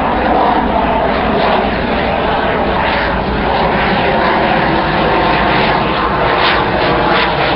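Aircraft engine noise: a steady, loud rushing sound with no clear rise or fall in pitch.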